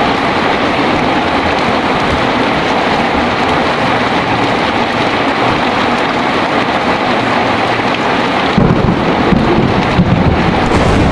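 Heavy rain pouring steadily. Near the end a deep rumble of thunder rolls in under it.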